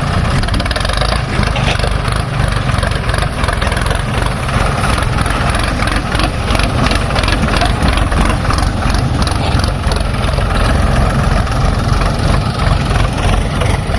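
Heavy diesel machinery engine running steadily, with a quick clatter of knocks through the middle.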